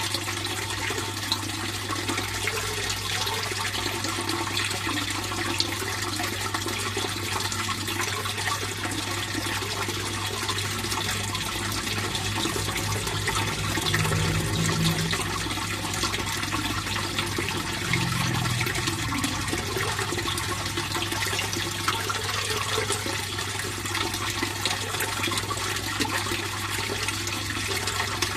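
Water flowing and splashing steadily in a fish pond, with a low steady hum underneath.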